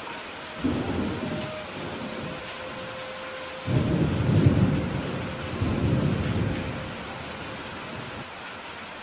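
Steady rain with thunder rumbling: a first roll just under a second in, then a louder, longer roll that swells and dies away over the middle of the clip.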